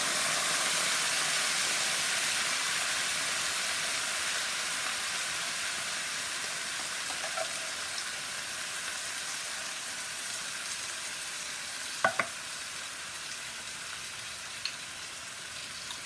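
Onion, spices and curry leaves sizzling in a frying pan; the hiss slowly dies down. A sharp double knock comes about twelve seconds in, with a lighter tick a couple of seconds later.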